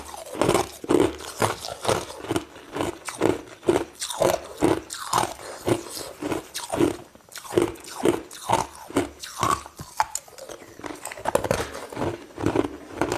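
Close-up crunching of crushed ice between the teeth as it is bitten and chewed, a steady run of crunches about two a second.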